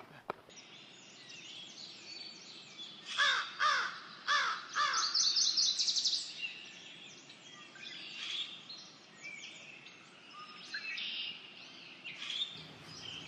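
Wild birds calling outdoors: four loud, evenly spaced calls a little after three seconds in, then a fast high trill, with scattered small-bird chirps throughout.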